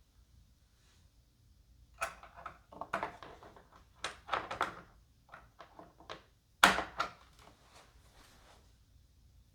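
Irregular knocks and clicks of parts being handled and fitted together during hand assembly. They start about two seconds in, and the loudest is a single sharp knock near the seven-second mark.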